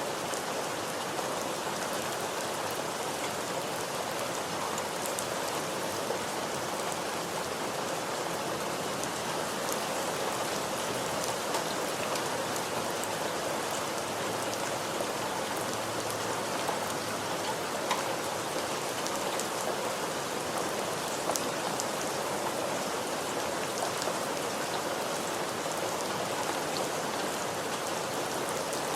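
Steady rain falling, an even hiss with many small distinct drop patters on surfaces.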